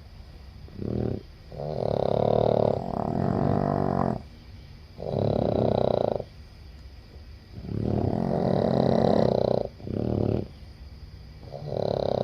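A sleeping Boston terrier snoring loudly, with a rasping snore on each breath roughly every one to two seconds.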